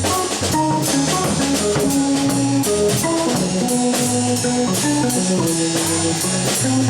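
Live jazz trio playing: a drum kit with evenly spaced cymbal strokes under held melodic notes and a moving bass line.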